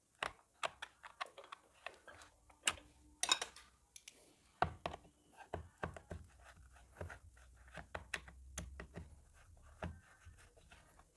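Scattered light clicks and knocks of a hand tool and small metal parts being handled while a screw is undone on a rotary hammer drill, with a brief scrape about three seconds in.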